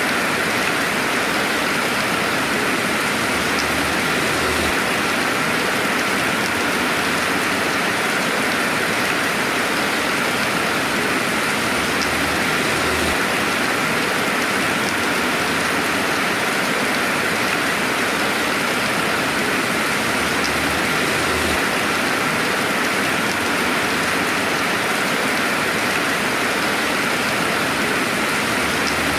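Steady rainfall: an even, continuous hiss of rain with no thunder.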